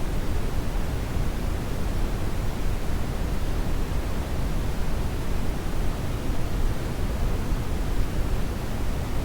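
Steady synthetic brown noise: an even, deep rushing hiss weighted toward the bass, with no pitch, rhythm or events.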